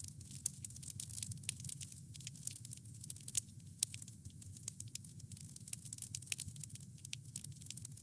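Campfire burning: wood crackling in a steady stream of sharp, irregular pops over a low, steady rumble of flames.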